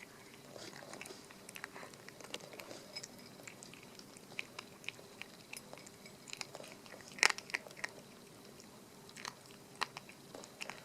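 Chihuahua puppy crunching dry kibble, irregular sharp crunches as it bites and chews, the loudest about seven seconds in.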